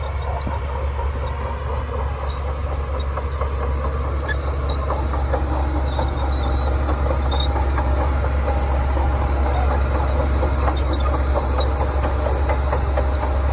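Shantui DH17C2 bulldozer's diesel engine running steadily with a deep drone, under a continuous light clatter of the steel tracks. It gets a little louder about five seconds in.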